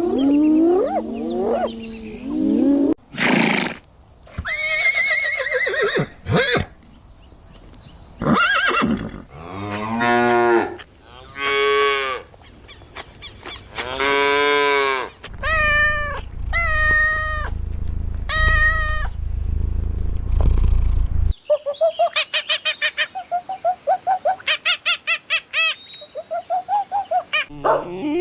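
Farm animals calling one after another, the animal changing every few seconds: drawn-out pitched calls with rich overtones, some of them low moo-like calls. Near the end comes a quick run of short calls, about five a second.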